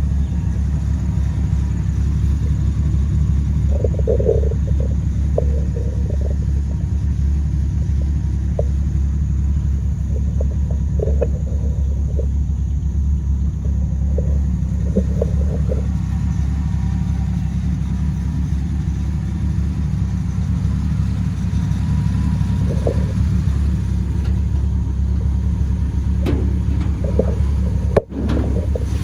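1983 Dodge D150 Miser pickup running with a steady low rumble, with faint short squeaks or rattles now and then. The sound cuts out for a moment near the end.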